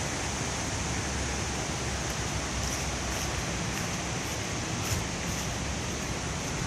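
Steady rushing of Rapid Creek running high with snowmelt and rain.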